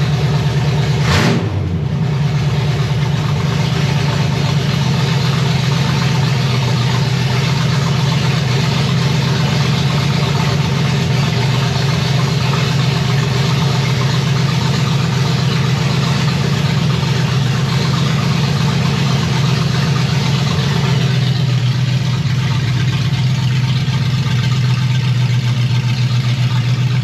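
Chevy 327 small-block V8 running steadily on its first runs after the build. A brief sharp click comes about a second in. Around twenty seconds in the engine note drops a little as its speed settles lower.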